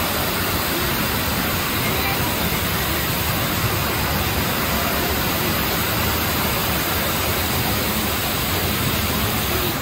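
Steady, loud rushing noise with faint voices in it; it falls away just at the end.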